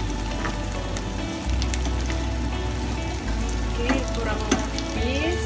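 Beef tetelan with chillies and onion sizzling in oil in a stainless steel frying pan as it is stirred with a plastic spatula, with light clicks of the spatula against the pan.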